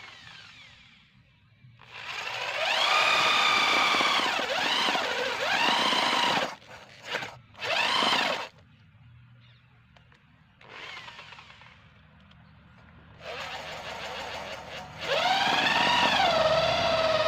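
Electric drill motor turning a homemade earth auger, run in several bursts of a few seconds. Each burst rises in pitch as the motor spins up, then the pitch wavers and sags before it stops.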